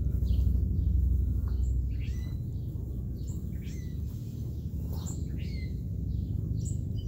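Songbirds chirping in repeated short calls that sweep downward in pitch, over a steady low rumble.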